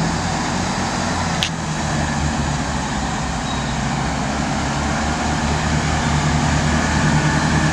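Train engine running with a steady low hum that grows a little louder near the end, with a single sharp click about a second and a half in.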